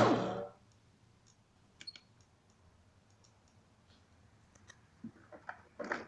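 Last of a falling whine from the boat's two brushless motors winding down, fading out within the first half second. Then near silence with a few faint clicks, a small cluster near the end.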